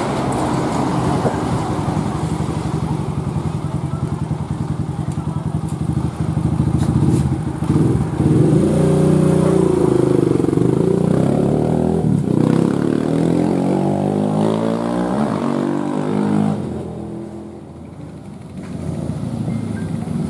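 Kawasaki KLX motorcycle running through a GP7 aftermarket exhaust. The engine note rises and falls through several revs in the middle, then drops quieter for a moment near the end before picking up again.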